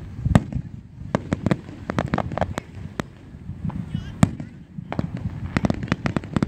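Aerial fireworks shells bursting in a rapid, irregular run of sharp bangs over a low rumble.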